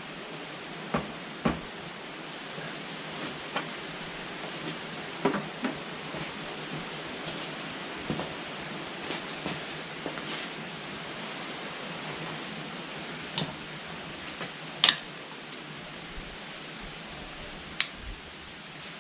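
Steady background hiss with about a dozen light clicks and knocks at irregular intervals, from tools and motorcycle control parts being handled during handlebar work.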